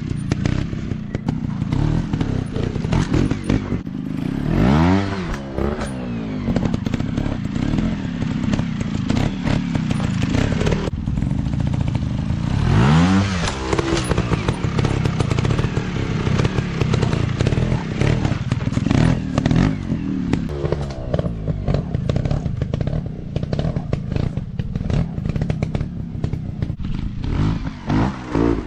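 Dirt bike engines running under load and revving hard, with two sharp rising revs about four and twelve seconds in, over a constant clatter.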